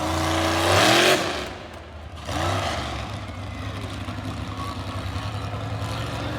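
A vehicle's engine revs hard twice, its pitch climbing sharply each time, then runs steadily at part throttle.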